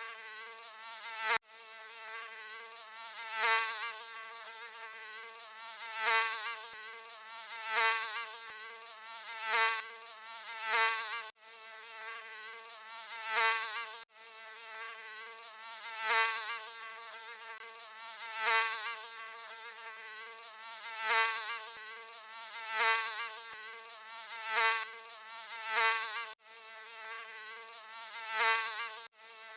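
Mosquito buzzing: a high, wavering whine that swells loud and fades again about every two seconds, as if flying close past the ear, with a few sudden brief breaks.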